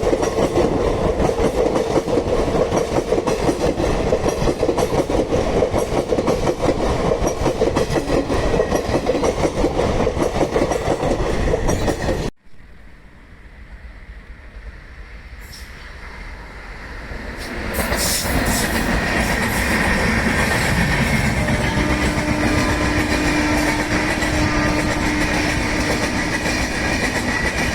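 Express train passing close by, its wheels clattering rhythmically over the rail joints. About halfway through the sound cuts off abruptly. After a few quieter seconds another train's rumble builds and runs on loud, with a steady hum for several seconds near the end.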